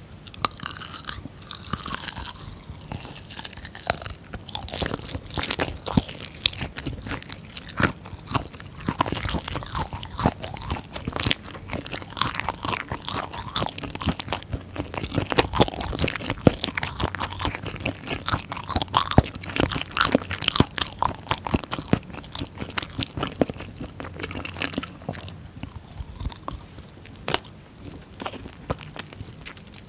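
Close-miked eating of spicy chicken feet: chewing and biting with a dense run of crisp crunching clicks, thinning out over the last few seconds.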